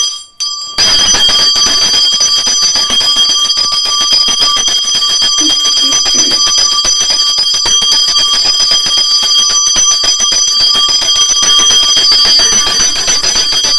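Puja hand bell rung rapidly and continuously, a loud steady ringing that starts about a second in.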